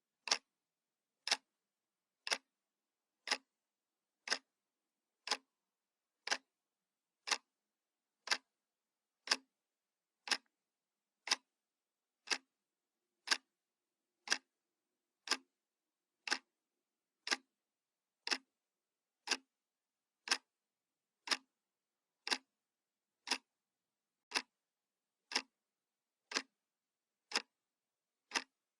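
Analog clock ticking once a second, each tick a short sharp click, with nothing heard between the ticks.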